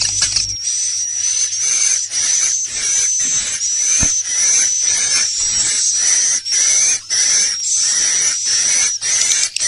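Recorded swiftlet roosting ('inap') call, the lure sound played in swiftlet houses to draw edible-nest swiftlets in to roost: rapid high-pitched twittering chirps repeating several times a second over a steady high whistle-like tone.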